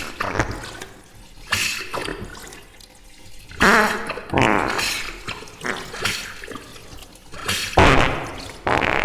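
Fart sound effects slowed down and drenched in reverb, a string of several separate bursts, each trailing off.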